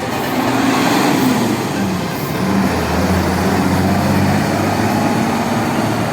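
A large bus engine running close by with a low, steady drone over traffic and road noise.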